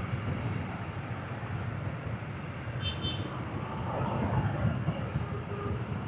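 Busy street traffic heard from a moving motorbike: a steady rumble of motorbike engines and road noise, with a short high beep about three seconds in.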